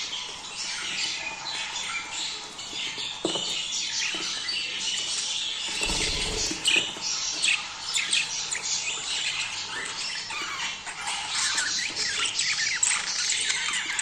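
A flock of budgerigars chattering, with dense, overlapping chirps, warbles and squawks. A brief low thump comes about six seconds in.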